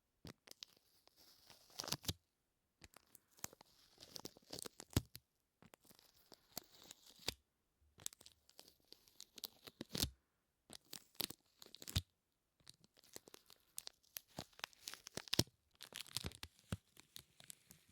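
Close-miked ASMR sticky sounds: a sticky surface pressed and pulled apart, giving repeated short runs of crackling, peeling clicks with brief silent gaps between them.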